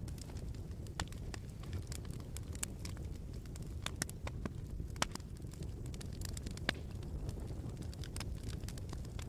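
Wood fire crackling in a fireplace: a steady low rumble of flames with irregular sharp pops and snaps, the loudest about five seconds in and again shortly before seven seconds.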